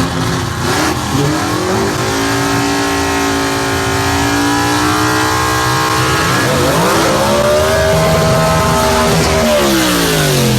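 Gasser drag car's engine revving up twice, each time climbing, holding high for a couple of seconds, then dropping back, over a loud exhaust rasp.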